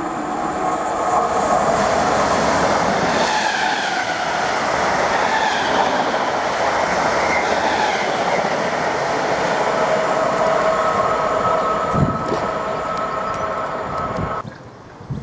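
Train passing at speed: steady wheel-on-rail rumble with squealing tones from the wheels and a single knock near the end. The sound cuts off abruptly just before the end.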